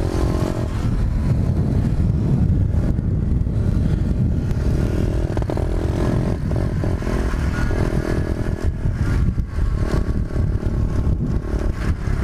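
Pit bike engine running while riding along, with heavy low wind rumble on the microphone.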